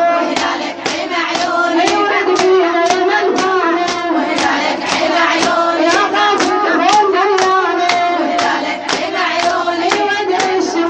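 A woman's voice singing a Muharram lament (fazaʿiya) with wavering, ornamented melody, over steady hand strikes beating time about twice a second.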